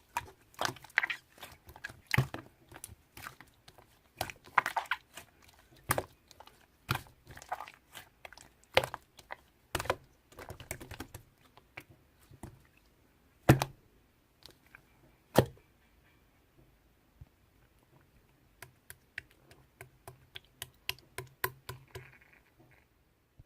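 Marbled slime being squeezed and poked by hand, giving irregular sharp clicks and pops with crackly stretches between them, sparser for a few seconds and then a quick run of small clicks near the end.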